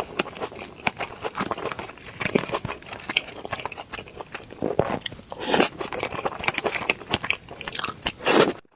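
Close-miked chewing and biting of a rice bowl with stir-fried green peppers and shredded pork: quick wet mouth clicks and soft crunches, with a louder bite about five and a half seconds in and another near the end.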